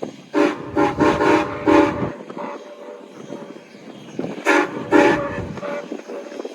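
A train's whistle or horn sounding a chord in short blasts: about four in quick succession, then two more after a pause of a couple of seconds. Low train rumble runs underneath.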